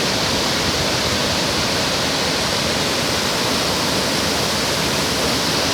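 Waterfall: the steady rush of falling water crashing at the foot of the falls, a full, even roar spread from low to high pitches.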